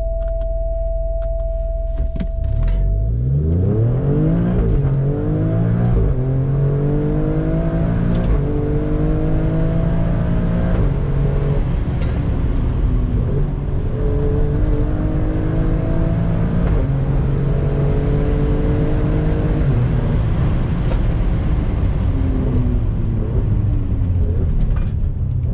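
Alfa Romeo Stelvio Quadrifoglio's twin-turbo V6 and exhaust under hard acceleration, the engine note climbing through the revs and dropping at each upshift, several gears in a row. Near the end the revs fall as the driver eases off.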